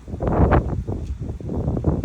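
A strong wind gust of about 30 mph rustling the trees' leaves and buffeting the microphone, rising sharply a moment in and staying loud and gusty.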